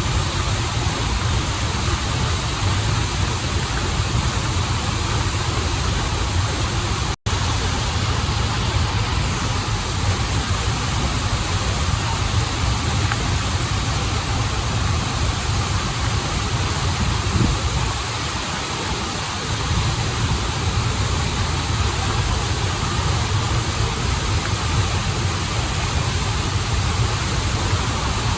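Rushing water of a waterfall and stream: a steady, dense hiss with a deep low rumble underneath. It cuts out for an instant about seven seconds in.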